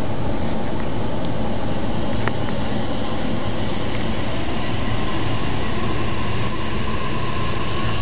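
Electric trains at a station: a steady, loud rumble and hum, with a thin high tone, such as wheel squeal, coming in about five seconds in.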